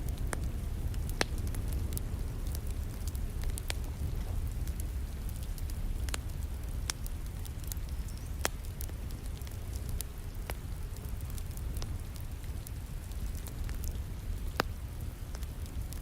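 Wood fire crackling, with irregular sharp pops and snaps over a steady low rumble, mixed with the soft hiss of falling rain.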